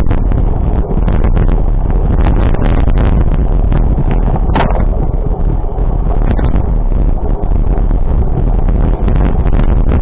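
Loud, steady wind noise rumbling and buffeting on the microphone, with a brief higher sound about halfway through.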